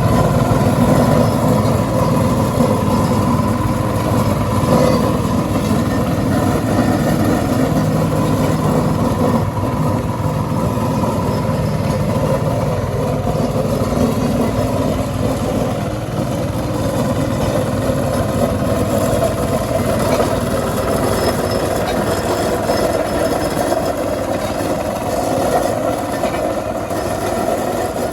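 Diesel engine of a Caterpillar backhoe loader running steadily, with small rises and falls in level.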